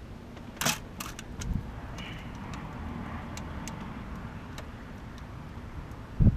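Metal clinks from hand tools or engine parts being handled, a few sharp clicks early on, then a dull knock, and a loud low thump near the end.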